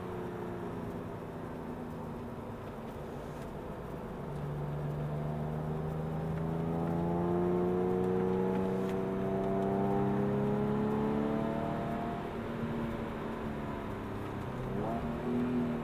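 Porsche 911 Carrera S (997)'s 3.8-litre flat-six heard from inside the cabin on track: steady at first, then revs climbing slowly and getting louder for several seconds under acceleration, then easing off, with a quick brief rise in revs near the end.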